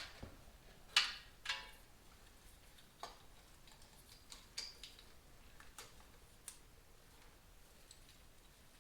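A few scattered metallic clinks and taps from metal parts being handled. Two louder, ringing clinks come about a second in, then fainter taps every second or so.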